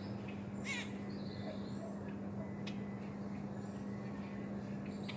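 Wild birds calling: one harsh, wavering call a little under a second in, then a few short sharp chips and faint thin high notes. Under them runs a steady low hum.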